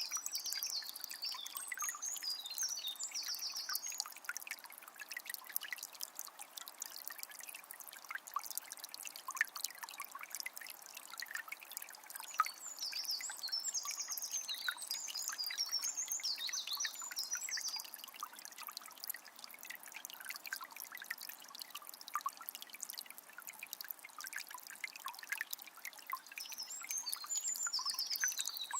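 A small spring's water trickling and splashing steadily. A songbird sings bursts of quick, high, trilled notes three times: at the start, around the middle, and near the end.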